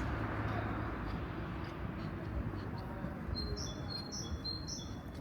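A small bird chirping, three short high notes in quick succession about three and a half seconds in, over a low steady town background hum.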